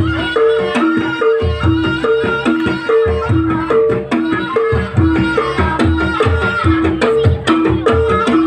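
Javanese jaranan-style folk music: hand drums beating a busy rhythm under a two-note figure that repeats about twice a second, with a high wavering melody line above.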